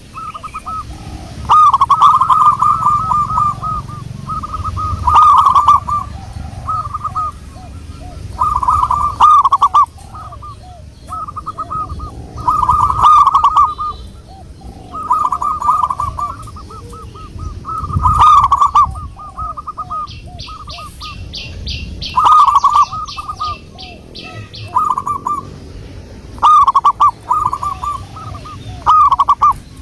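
Zebra dove cooing: a bubbling phrase of rapid notes, repeated every few seconds. Another small bird gives a fast, high trill about two-thirds of the way through.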